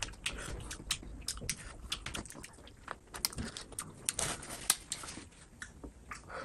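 Close-miked eating sounds: a person chewing, with many irregular wet clicks and smacks of the mouth and lips.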